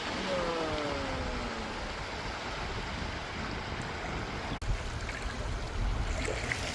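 Sea surf washing on a beach, a steady rush, with wind buffeting the microphone in the later part. A short falling call sounds near the start, and the sound cuts out for an instant about two-thirds of the way through.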